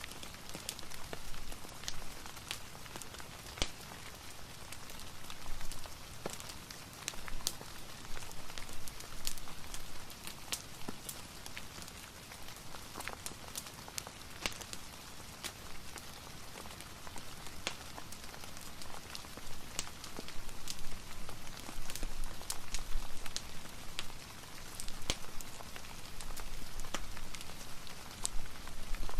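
Steady rain hiss mixed with the irregular sharp crackles and pops of a fireplace fire.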